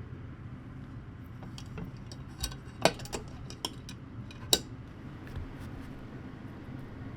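A handful of short clinks and knocks of kitchenware or utensils being handled, two of them sharper and louder than the rest, over a steady low background hum.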